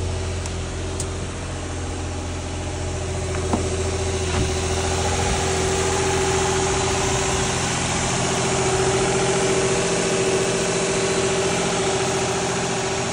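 Nissan Skyline 350GT's VQ35HR 3.5-litre V6 idling steadily just after start-up, running again once its CAN wiring fault was repaired. Two light ticks are heard about three and a half and four and a half seconds in.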